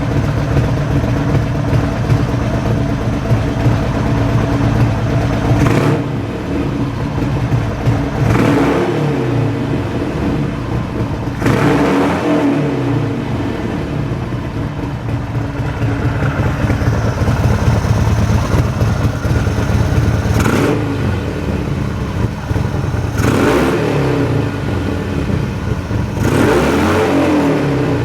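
Harley-Davidson XL1200R Sportster's air-cooled V-twin idling through an aftermarket Trump Cycle muffler, just after starting, with the throttle blipped briefly about six times.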